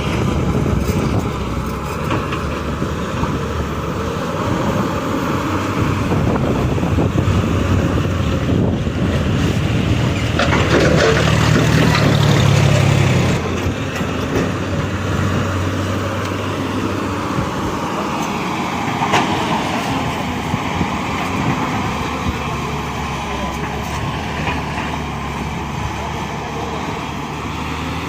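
Diesel engine of a Tata Hitachi excavator running steadily while it works, pulling harder for a couple of seconds around the middle.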